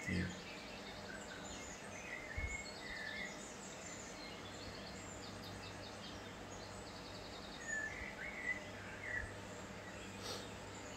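Faint bird chirps: a few short sliding calls about two seconds in and again around eight to nine seconds, with rapid high trills between them, over a low steady hum.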